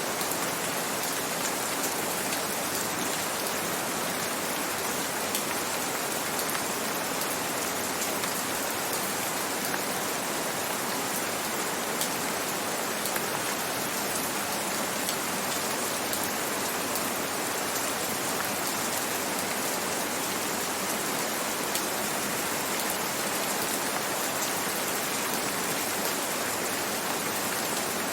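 Steady gentle rain: an even hiss of falling rain with the fine patter of single drops, the same throughout.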